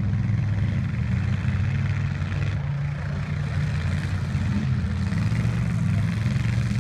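Derby trucks' engines running at a steady, low drone, with no crashes or impacts.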